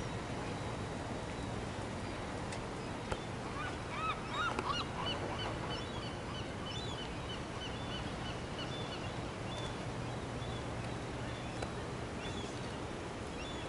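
A bird calling in a quick series of short, repeated calls, about three a second, starting a few seconds in and thinning out after several seconds, over steady outdoor background noise.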